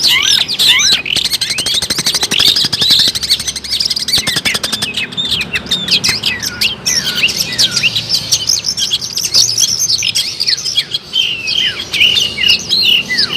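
Long-tailed shrike (cendet) singing continuously: a dense, fast run of chirps and quick rising and falling whistles, with a rapid clicking rattle in the first few seconds.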